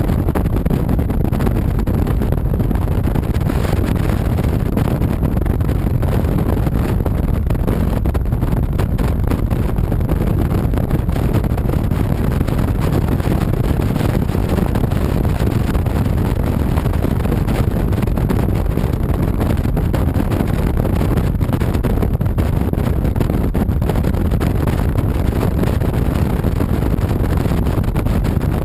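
Honda VTX 1300C V-twin motorcycle cruising steadily, its engine rumble mixed with rushing wind on the camera.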